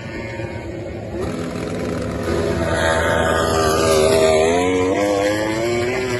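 MotoGP racing motorcycle's four-cylinder engine coming closer and getting louder, loudest about four seconds in, then its pitch falls as it goes past.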